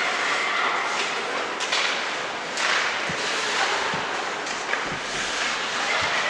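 Youth ice hockey game sounds in a rink: a steady wash of skates on ice and arena noise, with a few sharp clacks of sticks or puck and a louder scraping swell about two and a half seconds in.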